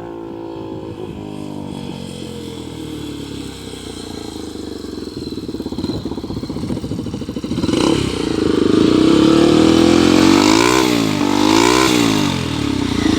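Honda CB300's single-cylinder engine through an open pipe with no muffler, ridden hard with the gears stretched. It grows much louder about eight seconds in, then dips and climbs sharply in pitch twice near the end. The engine has worn piston rings.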